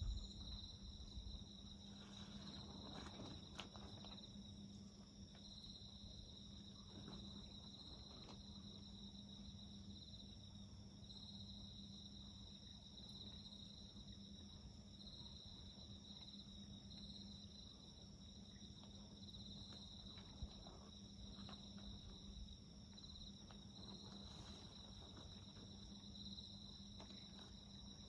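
Crickets singing faintly: a steady high trill that swells and fades about once a second, with a few faint crackles from a small wood fire.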